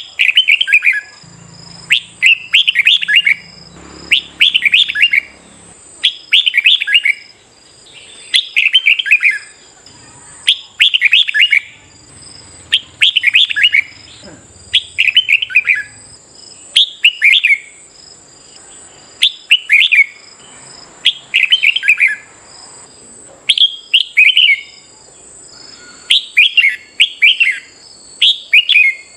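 Red-whiskered bulbul singing: short, bright warbled phrases of quick descending notes, repeated about every second and a half, some twenty in all.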